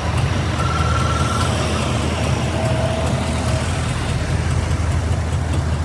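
Heavy truck engine running at a steady idle, a continuous low rumble.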